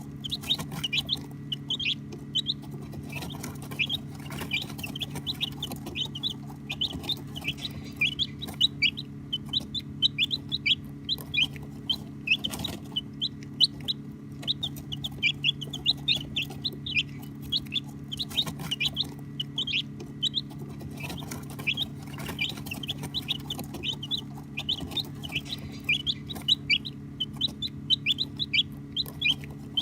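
A flock of baby chicks peeping continuously: many short, high chirps, each falling quickly in pitch, several a second and overlapping. A steady low hum runs underneath.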